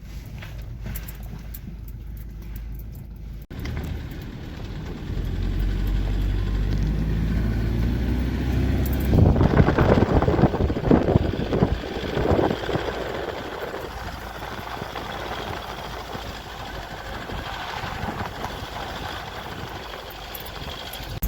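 Motor vehicle driving: steady engine and road rumble. The engine note climbs around a third of the way in, and there is a rougher, louder stretch just before the middle.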